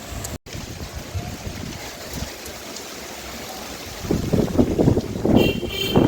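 Monsoon rain falling in strong wind, with wind gusts buffeting the microphone and getting louder from about four seconds in.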